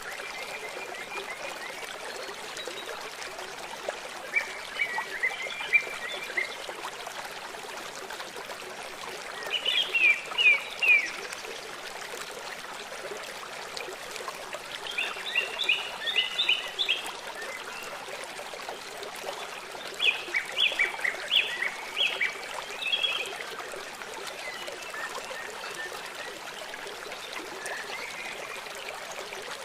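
A river flowing with a steady rushing babble. Over it a songbird repeats short phrases of quick high notes every five seconds or so.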